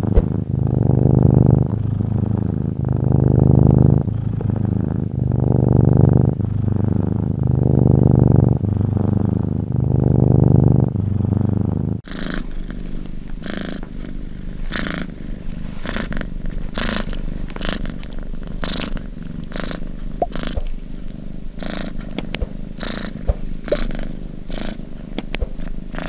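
Domestic cat purring: a deep rumble that swells and fades with each breath, about every two seconds. About halfway through it changes to another purring cat, quieter, with many sharp clicks over it.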